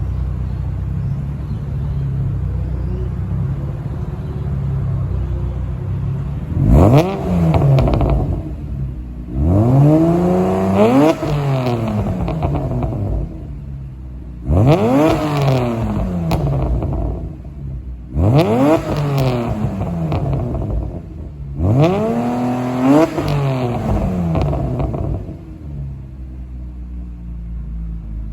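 Exhaust of a turbocharged Subaru EZ30D 3.0 flat-six idling with a low rumble, then revved up and let fall back five times over about eighteen seconds before settling back to idle.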